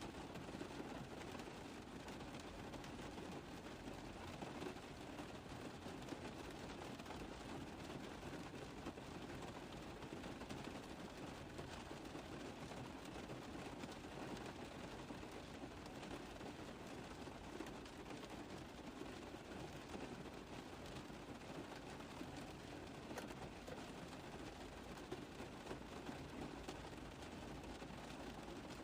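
Steady rain tapping on a car roof: a dense, even stream of small drop impacts that holds at one level throughout.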